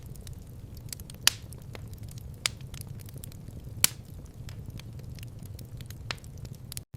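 Wood fire crackling in a fireplace: scattered sharp pops, three louder ones in the first four seconds, over a low steady rumble. The sound cuts out for an instant near the end.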